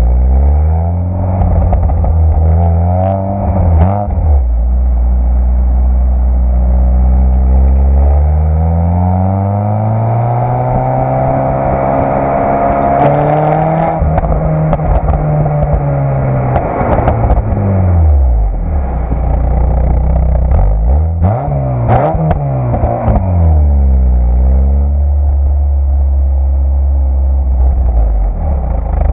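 Citroën Saxo VTS's 1.6 16-valve four-cylinder engine on its stock exhaust, running low, climbing slowly to high revs and holding there, then dropping back. A few quick blips of the throttle follow before it settles back to a steady low idle near the end.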